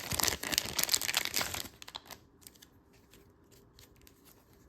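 Crinkling and tearing of mail packaging being opened by hand for about the first two seconds, then a few faint handling clicks.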